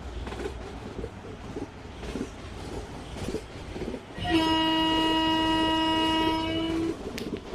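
Electric train's horn sounding one steady blast of about three seconds, starting about four seconds in. Before it, a low rumbling noise with scattered knocks.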